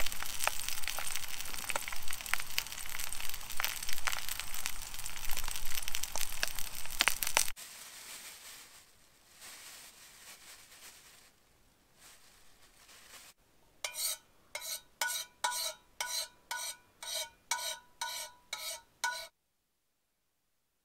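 Sausages sizzling and spitting in a small pan, dropping to a faint hiss after about seven seconds. Near the end comes a run of about a dozen short pitched pulses, roughly two a second, that cut off abruptly.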